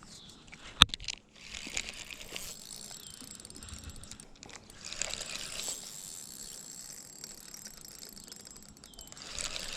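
Fishing reel being worked with its mechanism ticking and whirring as line is reeled in against a fish snagged in weeds, with one sharp click about a second in.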